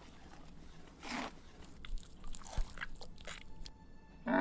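A few faint, short crunching clicks, spaced out over several seconds against a quiet background.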